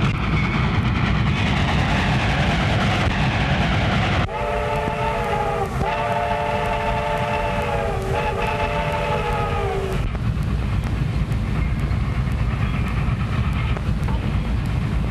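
Train running with a steady rumble; its whistle blows about four seconds in, three long blasts run close together, and stops about ten seconds in.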